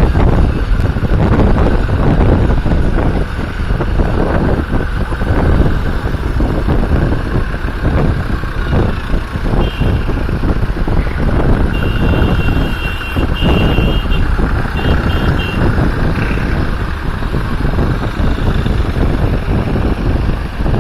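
Tractor engines running loudly and steadily, with a few short, high-pitched beeps in the middle.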